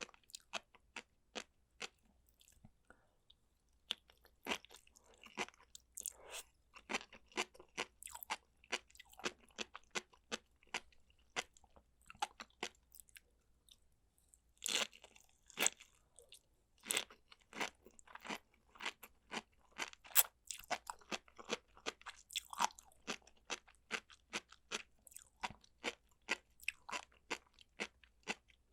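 Close-miked eating: chewing and biting food with a stream of crisp crunches and wet clicks. These are sparse for the first few seconds, then come thick and fast, loudest about halfway through.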